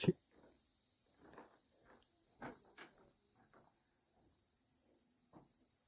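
Faint, steady high-pitched chirring of night insects, with a few soft rustles and taps now and then.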